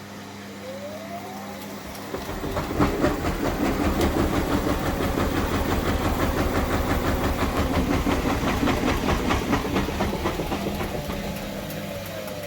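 Indesit 1400-spin washing machine's drive motor and drum running. About a second in comes a faint rising whine, which the owner takes for back EMF as the motor freewheels and slows. From about two seconds the machine gets louder with a fast, even, rhythmic churning, then eases off near the end as a fainter whine falls in pitch.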